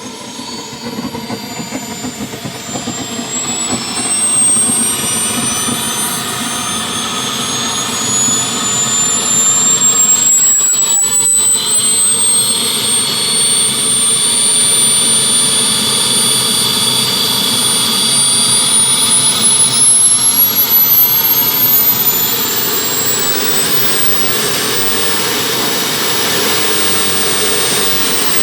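Homemade twin-turbine jet running up: a high turbine whine that climbs steadily in pitch over a loud rushing roar, then holds level for the last several seconds.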